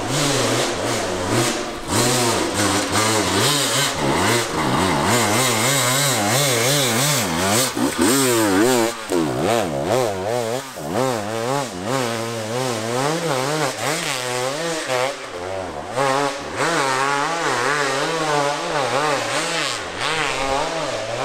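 Two-stroke 300 enduro motorcycle engine revving hard on a steep hill climb, its pitch rising and falling over and over with the throttle. The revving is densest and fastest about halfway through.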